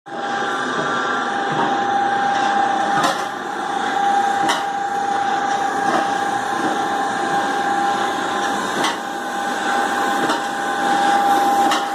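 Homemade hominy-bran dryer running, driven by a 3/4 hp three-phase gear motor: a steady whine over a noisy hum. A few sharp knocks come through at irregular moments.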